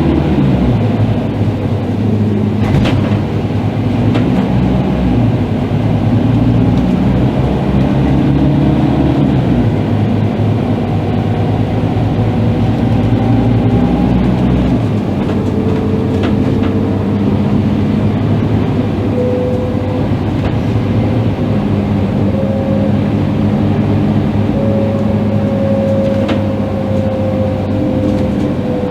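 Scania K310IB articulated bus's diesel engine pulling under way: the engine note climbs, drops at a gear change about ten seconds in, then runs steadily lower. A thin whine comes in about halfway and slowly rises in pitch.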